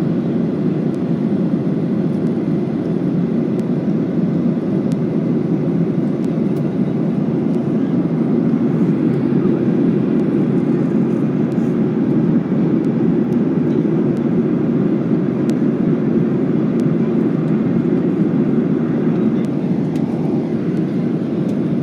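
Steady cabin noise of a Boeing 737-800 airliner in descent: an even rush of engine and airflow noise heard from inside the cabin, low and unchanging.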